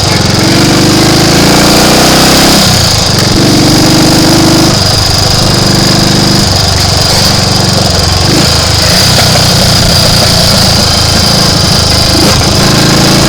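Triumph Tiger Cub's single-cylinder four-stroke engine running under way, its pitch rising and falling in steps every couple of seconds as the throttle and gears change.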